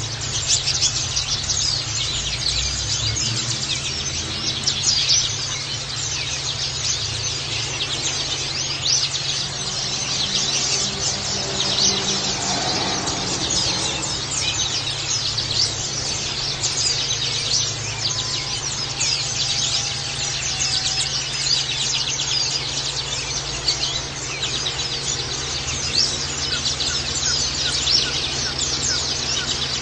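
Many white-eyes (pleci) chirping and twittering together without pause, quick thin high calls overlapping densely, over a steady low hum.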